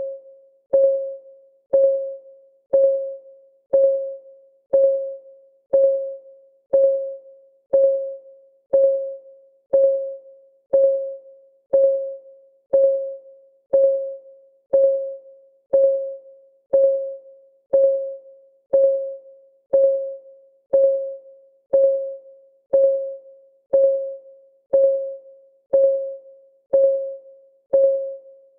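Clock ticking sound of a countdown timer: a steady, even tick about once a second. Each tick is a short pitched click that rings briefly and dies away before the next.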